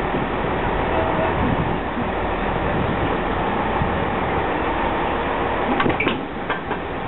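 Diesel engines of two Class 158 multiple units running steadily as one unit creeps up to the other to couple. A short cluster of metallic clanks about six seconds in as the cab ends meet.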